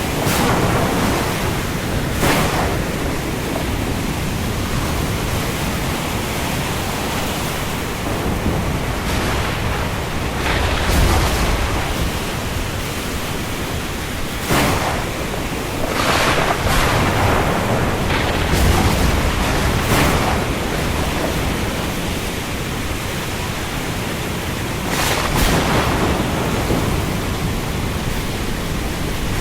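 Heavy rain falling on the open sea in a steady hiss, with wind, and louder surges every few seconds.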